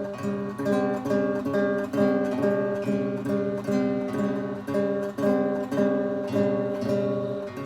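Acoustic guitar strummed in a steady rhythm, chord after chord, about two to three strums a second.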